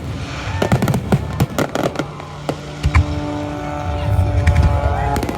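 Fireworks crackling and banging, thinning out about halfway. A steady engine-like drone then sets in, with a couple of rising whistles near the end.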